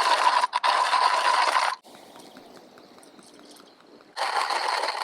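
Hand coffee grinder crunching beans, in two spells of grinding with a pause of about two seconds between them.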